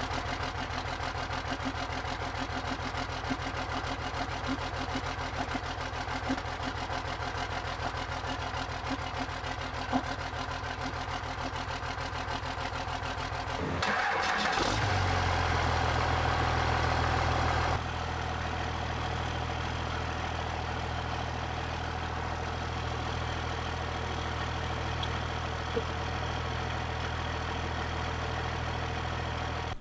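Turbo diesel truck engine idling steadily on its first runs after a rebuild. About halfway through, the sound changes abruptly and runs louder for about four seconds, then settles back into a steady idle.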